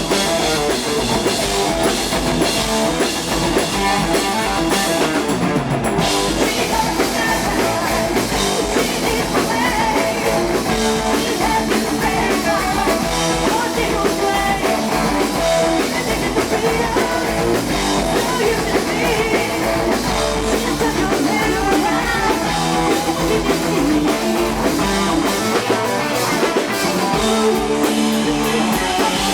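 Heavy metal band playing live: distorted electric guitars and drum kit, with sung vocals.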